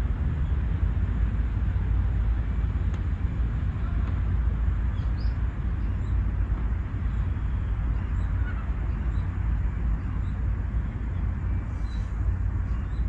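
Steady low rumbling outdoor background noise, with a few faint, short high chirps over it.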